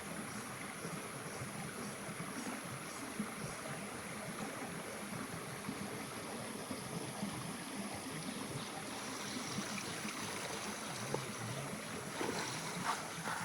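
Stream water running steadily, an even rushing hiss, with a few short clicks near the end.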